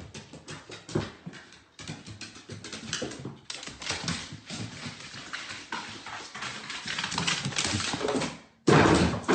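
A dog's claws tapping and scrabbling in quick, irregular clicks, as on stairs. A louder, different sound cuts in near the end.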